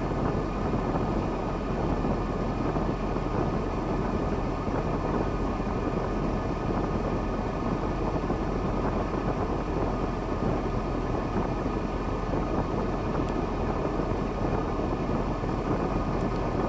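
KAMAZ timber truck's diesel engine running steadily.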